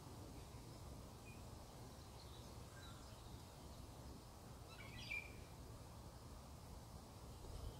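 Faint wild bird chirps in woodland, with one clearer short call about five seconds in, over a low steady rumble.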